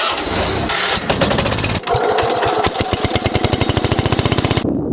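Small garden tractor engine running, with an abrupt change about two seconds in to a rapid, even train of exhaust pulses that cuts off sharply near the end.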